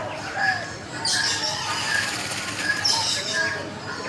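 Several tropical birds calling at once: a short high pip repeated about twice a second, harsher rasping calls, and a few lower sliding whistles.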